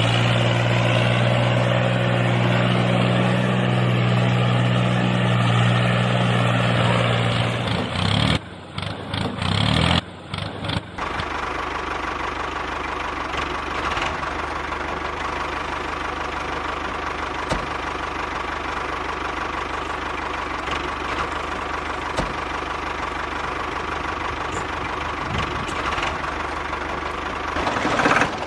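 An engine idling steadily, which breaks off abruptly about eight seconds in. After a few seconds of choppy sound it gives way to a quieter, steady mechanical hum.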